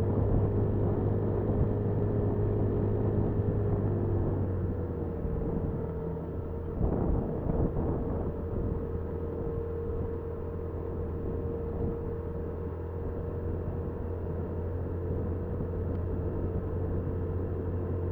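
Honda Super Cub 50's small four-stroke single-cylinder engine running steadily under way, with road and wind noise. Its engine note shifts about four to five seconds in, and there is a brief louder rush of noise a couple of seconds later.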